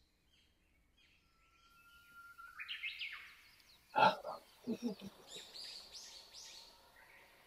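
Birds chirping over a quiet outdoor background. A brief, louder sound comes about four seconds in, followed by a few short low sounds.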